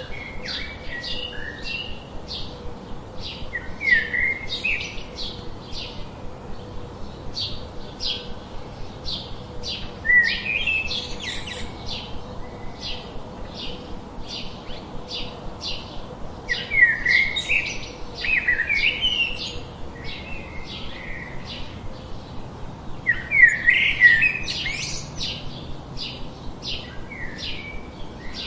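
Small birds chirping: a fast, steady run of short high chirps, about three or four a second, with louder twittering phrases breaking in every several seconds.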